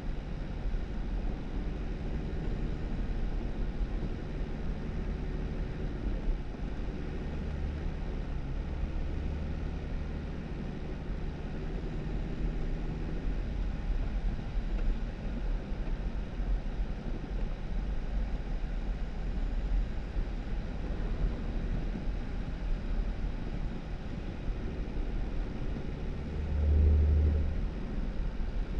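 2018 Jeep Wrangler driving on a snowy dirt road: a steady low rumble of engine and tyres, with one louder low bump near the end.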